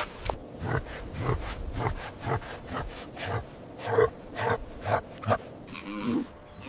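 An animal making a run of short, repeated sounds, about two a second, with a longer pitched call near the end.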